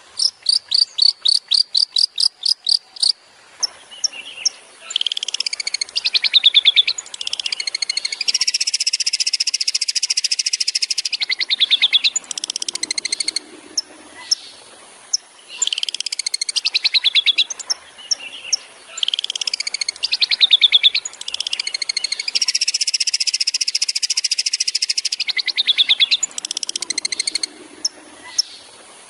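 Long-tailed shrike (cendet) singing. It opens with a rapid run of sharp, high repeated notes, then moves into a varied mimicking song with long, fast rattling trills; the same sequence comes round again about halfway.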